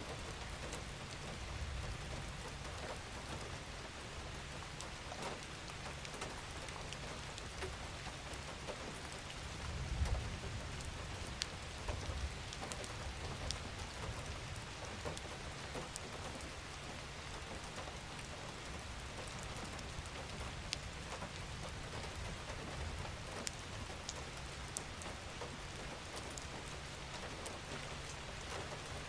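Steady gentle rain falling, with individual drops standing out now and then over a soft wash. A low rumble swells briefly about a third of the way through.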